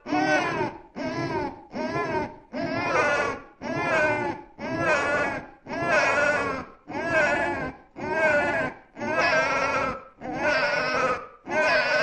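Newborn baby crying in a steady run of wails, one roughly every second, each under a second long with a short catch of breath between them.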